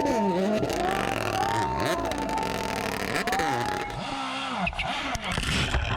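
Rally car engine revving hard, its pitch repeatedly dropping and climbing again as the driver lifts, brakes and accelerates through the stage, with a thin steady whine above the engine note in the first few seconds.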